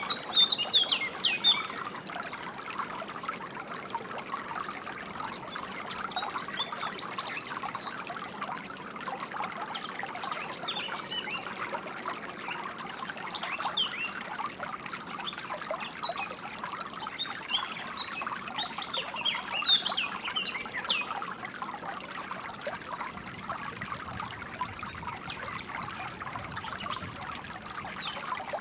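Shallow water trickling and babbling steadily, with songbirds chirping in short bursts several times over it.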